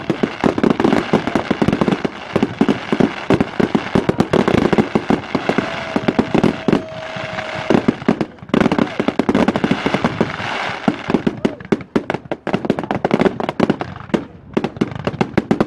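Fireworks going off in a dense, near-continuous barrage of sharp cracks and bangs, with a steady whistle lasting about two seconds near the middle.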